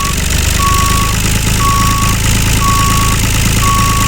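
Reversing alarm beeping about once a second in steady half-second beeps, over the steady noise and low hum of a running vehicle engine.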